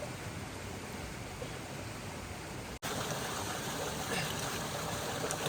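Stream water running over rocks, a steady rush. About halfway it drops out for an instant and comes back slightly louder.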